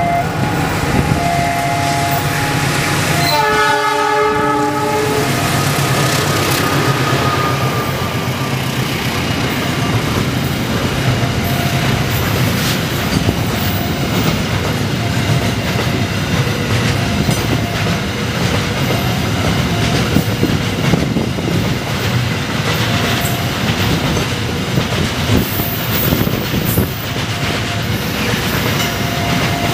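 Diesel-electric freight locomotive passing with a horn blast of about a second and a half, a few seconds in. Then a long freight train of loaded steel-coil, tank and container wagons rolls by, wheels clacking over the rail joints.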